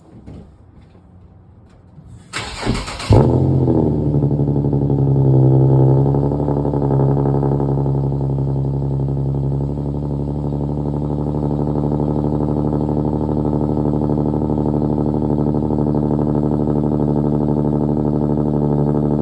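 Infiniti G37 coupe's 3.7-litre V6 cold-started through a muffler-deleted exhaust: the starter cranks briefly about two seconds in, the engine catches with a loud burst, revs up in a high cold-start idle and then settles to a steady idle.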